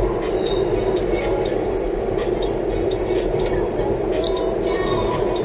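Steady road and engine noise inside the cabin of a Toyota Tank minivan driving along, with scattered faint ticks and rattles.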